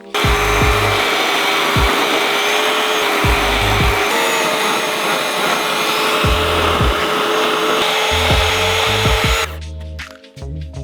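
Chainsaw engine running at high speed, a steady high-pitched motor noise that cuts off sharply near the end, with background music underneath.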